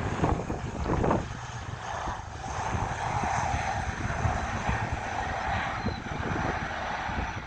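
ATR 42 twin turboprop engines at takeoff power during the takeoff roll: a steady propeller drone whose mid tone grows stronger from about two seconds in, with low gusty rumble underneath.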